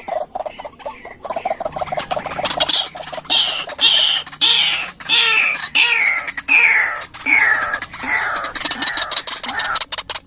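White-breasted waterhen calling: a run of repeated falling notes, about one and a half a second, with many sharp clicks running through them.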